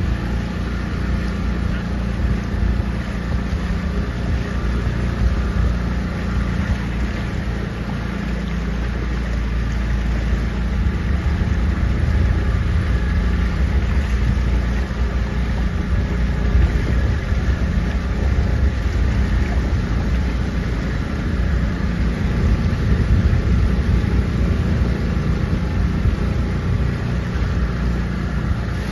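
Motorboat engine running steadily as the boat cruises, with wind rumbling on the microphone.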